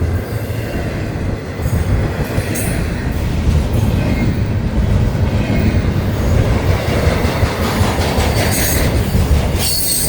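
A Florida East Coast freight train's cars rolling past close by: a steady, loud rumble of steel wheels on rail, with brief high-pitched wheel noise a few times.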